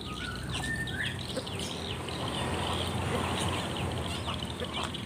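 Many small birds chirping, with short calls overlapping throughout and a few brief whistled notes about a second in, over a steady low hum.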